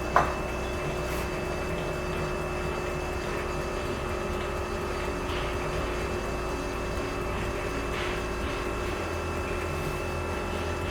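Cylinder honing machine running steadily, honing the bores of a G4KD engine block, with a steady hum and a low rumble; a short click sounds just after the start.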